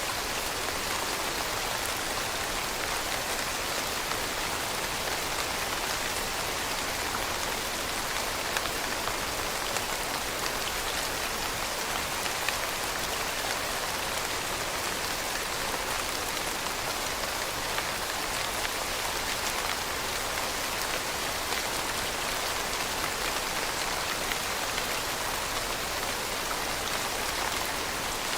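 Steady rain falling and pattering on a surface, with scattered individual drop ticks over an even hiss.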